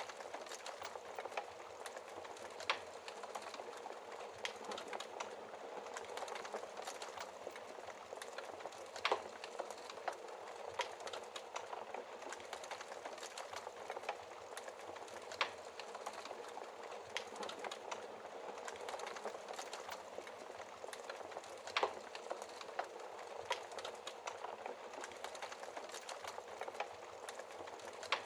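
Wood fire crackling in a fireplace: a steady hiss of burning logs full of small crackles, with a louder pop every six seconds or so.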